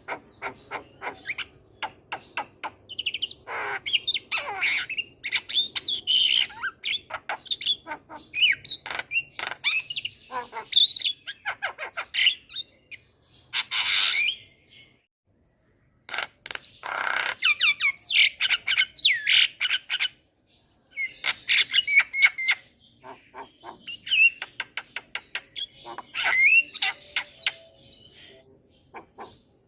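Javan myna (jalak kebo) singing continuously: rapid clicking chatter mixed with whistled notes and harsh squawks, broken by two short pauses midway.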